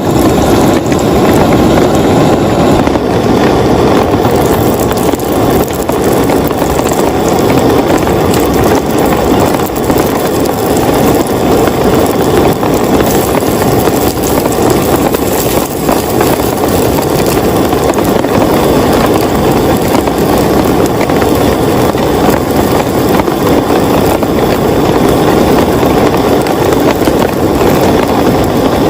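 Heavy rain falling steadily, a dense, even patter of drops on a close surface.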